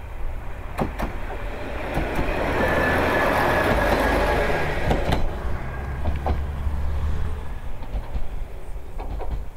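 A small single-car diesel train of the Kishū Railway passing close by: the engine's low drone and the rumble of wheels on rail build to a peak as it goes past, with a thin steady high tone, then fade as it pulls away.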